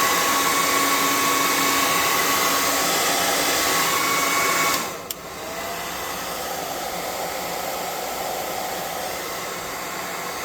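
Handheld electric air gun blowing to dry paint on a miniature: a steady rush of air with a motor whine. About five seconds in it clicks and drops to a quieter, lower-pitched setting, running on until the end.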